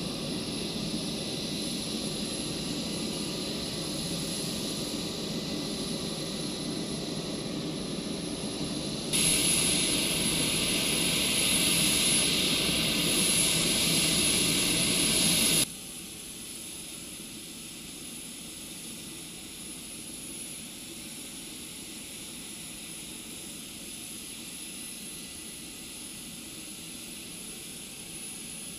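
Steady running of the HC-130J's Rolls-Royce AE 2100 turboprop engines, with a constant high turbine whine over the engine noise. The sound jumps louder about nine seconds in and drops sharply to a quieter level about six seconds later.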